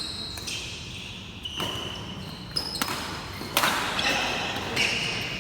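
Badminton rally: rackets striking the shuttlecock with several sharp hits, mixed with short high squeaks of court shoes on the floor.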